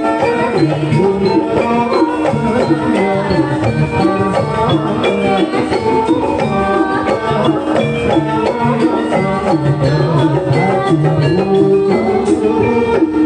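Jaranan music: a Javanese gamelan-style ensemble with drums and percussion playing a busy, steady piece with many pitched notes.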